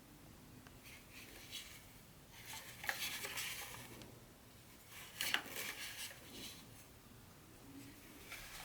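Hands handling packaging and small parts: two spells of crisp rustling with light clicks, about two and a half seconds in and again about five seconds in.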